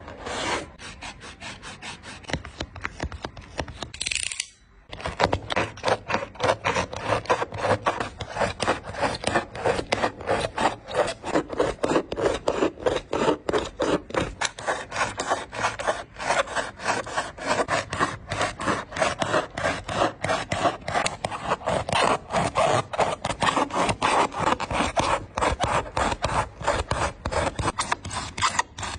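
A blade drawn back and forth through a sneaker to cut it apart, in quick rasping strokes of about three a second, with a short pause about four and a half seconds in.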